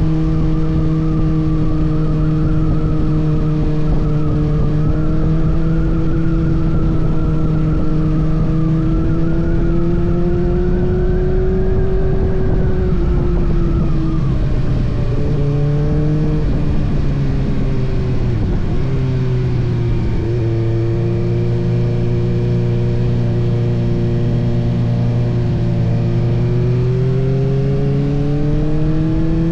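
Kawasaki ZX-6R's inline-four engine running under way at steady revs; the revs fall over a few seconds past the middle, hold lower, then rise again near the end.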